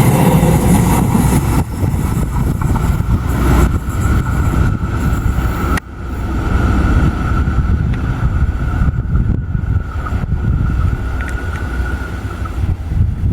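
A passing train's rumble with a steady high tone over it, mixed with wind on the microphone; the level drops suddenly about six seconds in.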